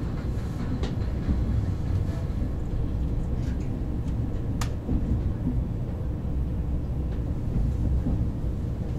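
KTX high-speed train running, heard from inside the passenger car as a steady low rumble, with a few light ticks and one sharp tick about halfway through.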